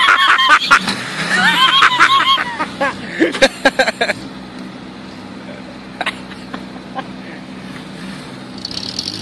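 A small Suzuki 4x4's engine idles steadily while the vehicle sits stuck in mud. Clusters of sharp knocks and high yells come in the first four seconds, then only the idle with a couple of single clicks.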